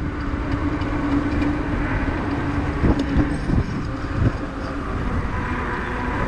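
Riding a fat-tyre electric bike on wet pavement: wind rumbling on the microphone over the tyres' noise, with a steady hum throughout and a couple of bumps about three and four seconds in.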